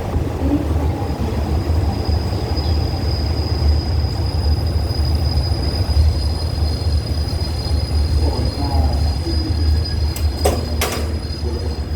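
Train rumbling steadily, with a steady high-pitched squeal from the wheels coming in about a second in and a couple of sharp clicks near the end.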